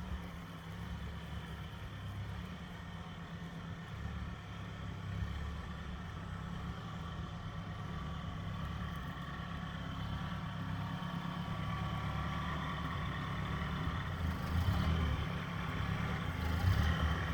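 Engine running steadily at low speed, growing a little louder toward the end with a couple of brief swells.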